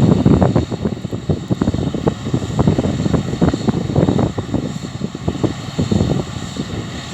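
Wind buffeting the microphone in uneven gusts, over the steady running of a Massey Ferguson combine harvester working the field.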